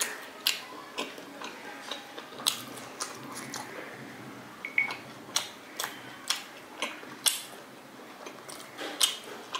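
Close-up chewing of steamed chicken momos, with sharp mouth clicks and lip smacks at irregular intervals.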